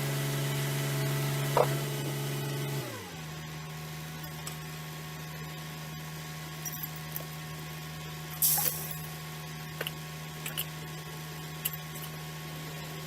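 Scania truck engine held at raised revs for about three seconds, then dropping back to a steady idle hum. A brief hiss comes about eight seconds in, with a few light clicks.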